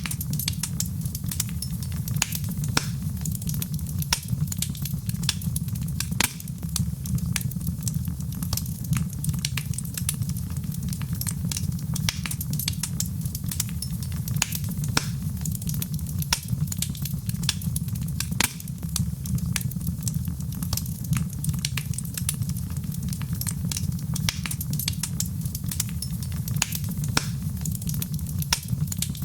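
Fire in a fireplace crackling: many small, sharp pops scattered irregularly over a steady low rumble of the flames.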